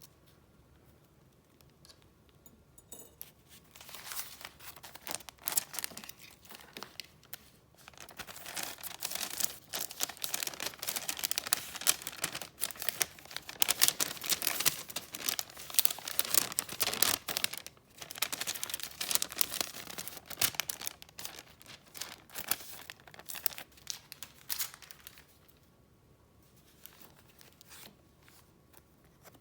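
Paper wrapping handled by hand, crinkling and rustling. It starts a few seconds in, is densest through the middle and dies away near the end.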